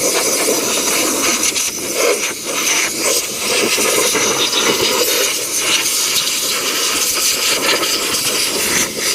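Harbor Freight sandblast gun blasting glass bead media at a heavily oxidized motorcycle engine: a loud, steady hiss of compressed air and grit.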